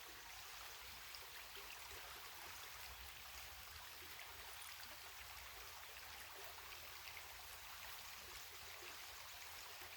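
Faint, steady flow of a creek nearby, with no other distinct sound.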